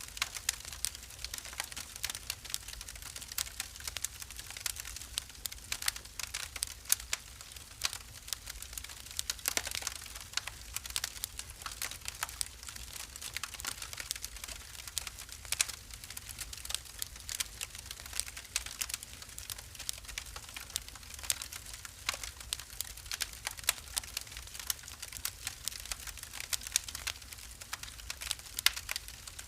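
Wood fire burning in a fireplace, crackling with a dense, irregular run of sharp pops and snaps over a low steady rumble.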